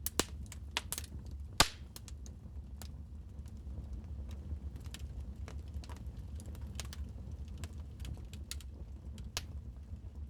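Wood fire crackling in a fireplace: irregular sharp pops and snaps, the loudest about a second and a half in, over a steady low rumble of the burning fire.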